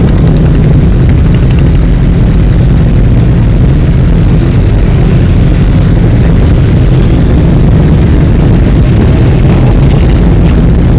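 A stream of motorcycle engines running as the bikes ride past, a steady loud low engine sound with no breaks.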